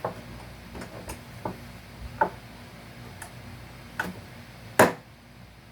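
Scattered sharp clicks and taps, about eight at uneven intervals, as staples and nails are pried and pulled out of salvaged couch wood; the loudest comes near the end.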